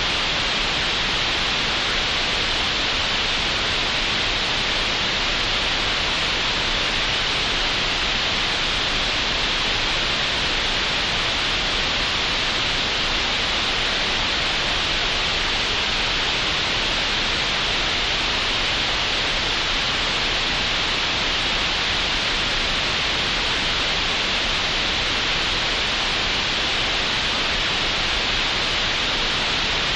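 Computer-generated green noise, made in Audacity: a steady, even hiss that doesn't change.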